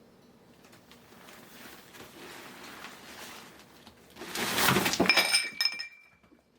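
A sudden clatter of something hard, with a short metallic ringing over it that dies away, after a few seconds of soft rustling.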